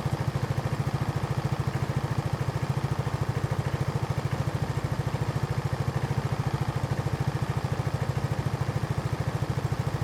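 Kawasaki J300 scooter's single-cylinder engine idling through a Mivv slip-on exhaust, a steady, even pulsing exhaust note that holds the same pace throughout.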